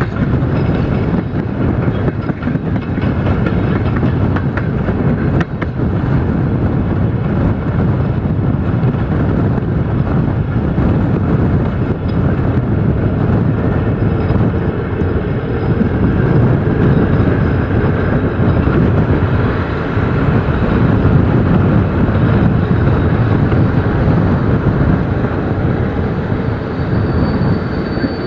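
A passenger train carriage in motion, heard from inside: steady rumble of wheels on rails and running noise, with a high thin squeal coming in near the end.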